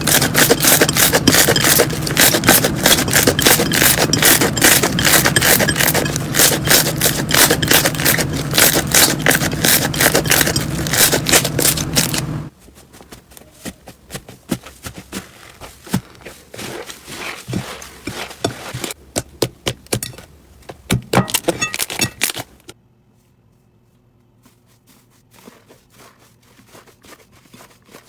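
Slime being squeezed and poked by hand, crackling and popping in a dense run of loud clicks over a low hum. About halfway through it changes abruptly to sparser, quieter pops, and near the end to only faint occasional clicks.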